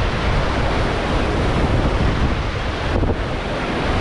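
Rushing whitewater around a paddled raft: a steady, dense wash of water, with wind buffeting the microphone.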